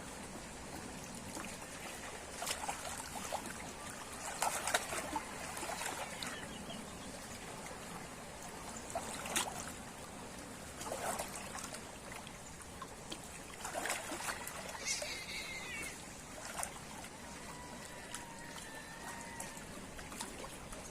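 Water trickling and lapping, with scattered small splashes and clicks.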